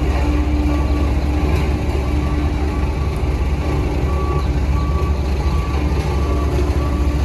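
Heavy construction machine's diesel engine running steadily under a series of short, evenly spaced reversing-alarm beeps, the sign of a machine backing up.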